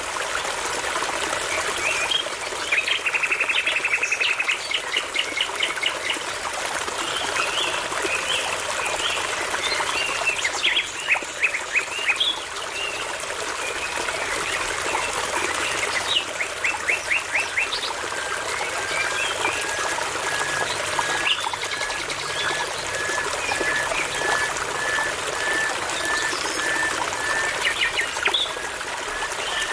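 Songbirds singing over a constantly trickling brook: varied phrases of fast trills and quick downward-sweeping notes, then, from about the middle on, a long steady series of short repeated whistled notes.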